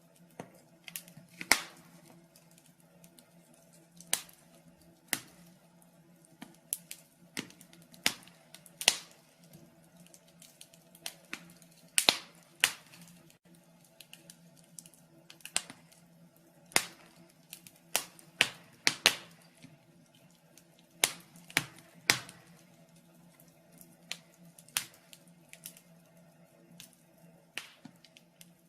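Wood fire in a fireplace crackling: irregular sharp pops and snaps, one or two a second, over a faint steady hum.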